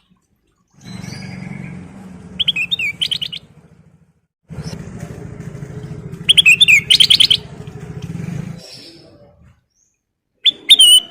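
Kutilang emas (a bulbul) singing: three short bursts of fast, quickly repeated chirping notes a few seconds apart. A low steady engine-like drone comes and goes underneath.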